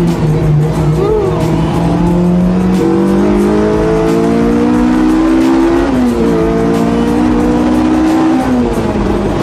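Honda Integra Type R DC5's K20 four-cylinder engine pulling under acceleration, its pitch climbing steadily, dropping sharply at an upshift about six seconds in, then climbing again before another drop near the end.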